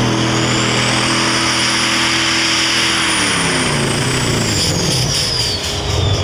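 Super stock diesel pulling truck's Cummins engine running at full throttle with a high turbo whine. About three seconds in, the engine and the whine wind down together as the pull stops short: something has broken and needs repair.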